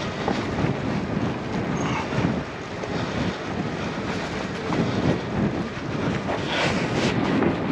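Wind buffeting the camera microphone over the uneven rumble of a mountain e-bike on a rough hill track.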